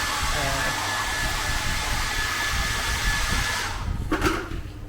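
Steady rushing of a small electric blower with a thin high whine, stopping suddenly about three and a half seconds in.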